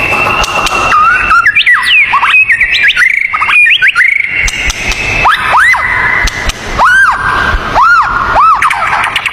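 Songbird whistling: a quick run of varied, sliding whistled notes, then a series of single arching whistles about once a second, over a steady high tone.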